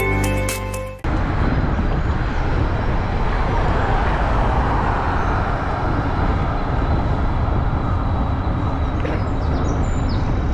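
Music fades and stops about a second in, followed by a steady outdoor rushing noise with a low rumble, with a few faint high chirps near the end.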